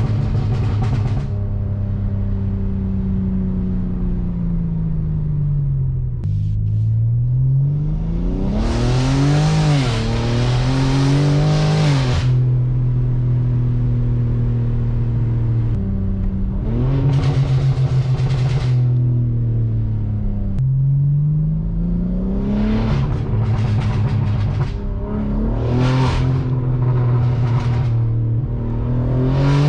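BMW M4 G82's twin-turbo straight-six, fitted with catless downpipes and a valved cat-back exhaust, being driven. The engine note falls and rises through the gears, with hard accelerations where the exhaust gets loud and raspy: about a third of the way in, just past halfway, and again through the last quarter.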